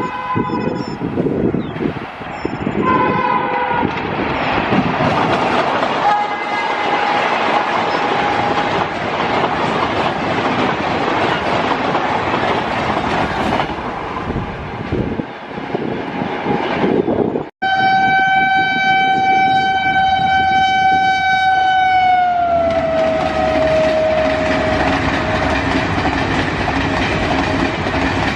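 Indian Railways express train passing at speed, the wheels and coaches rushing and clattering over the rail joints. Its electric locomotive's horn sounds in short blasts near the start. After a sudden cut comes one long horn blast whose pitch drops as the locomotive goes by.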